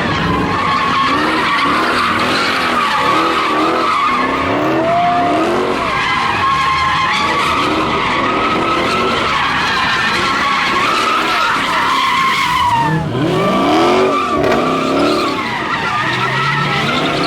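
A car drifting in a burnout, its tyres screeching steadily while the engine revs rise and fall over and over, with one bigger surge of revs about three-quarters of the way through.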